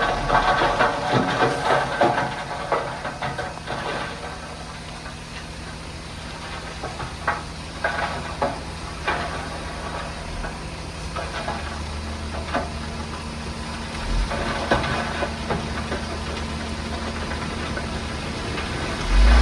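Heavy earthmoving machinery's diesel engine running, with a loud rushing, hissing noise for the first few seconds, then scattered knocks and clanks over a steady engine hum that grows deeper and stronger about two-thirds of the way through.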